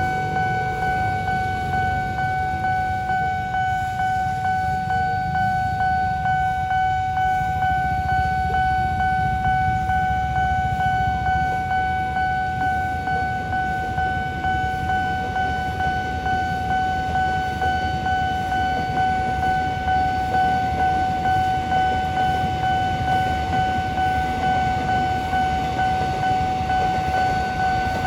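Nippon Signal railroad crossing warning bell sounding a steady high electronic tone with a fast, even pulse, over the low rumble of a passing train.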